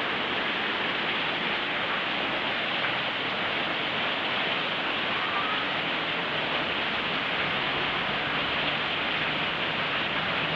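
Very heavy tropical rain pouring down, a steady dense hiss of rain on surfaces with no let-up.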